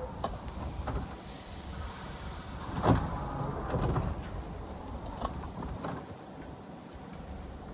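Subway car doors sliding shut at a station platform, with a thud about three seconds in and scattered clanks over a low rumble from the standing train.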